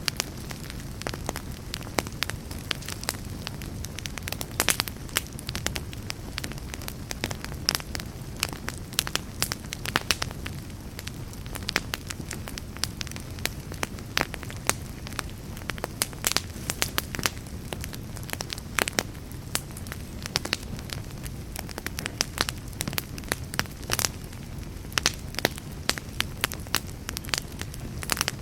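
Wood fire burning in a fireplace: a steady low hiss of flames with frequent sharp, irregular crackles and pops from the burning logs.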